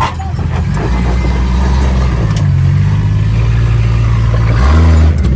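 Lifted Jeep Grand Cherokee ZJ's engine running at low revs while crawling over a rock ledge, its pitch stepping up and down with the throttle and getting briefly louder near the end.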